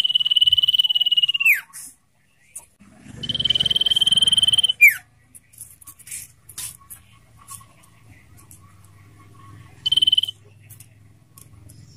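Common iora giving long, high, trilled whistles (the 'ngetir' song). Each note is held steady for about a second and a half and then drops away in a quick falling slur. Two long notes come in the first five seconds, and a short one follows near the end.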